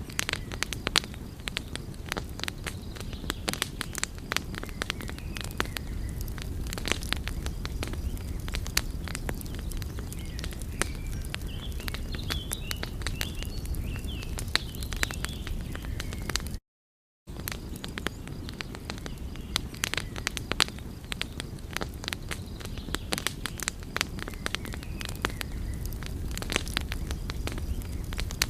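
Wood fire burning with dense, irregular crackles and pops over a steady low rumble. The sound cuts out completely for a moment about 17 seconds in.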